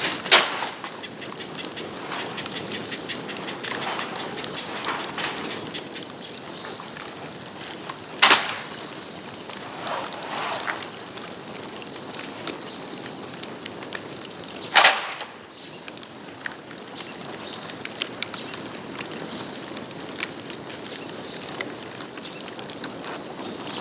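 Bamboo bonfire crackling steadily, with three sharp loud bangs as bamboo sections burst in the heat, about eight and six seconds apart, and smaller pops between. A thin, steady high whistle runs underneath.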